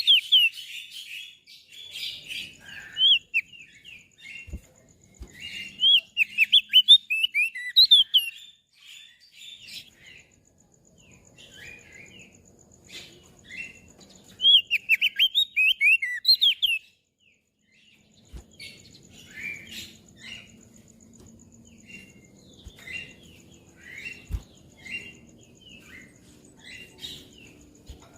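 Crested darkeye (opior jambul) singing: bursts of rapid, sweeping high chirps near the start, around a quarter of the way in and around the middle, with quieter scattered chirps in between.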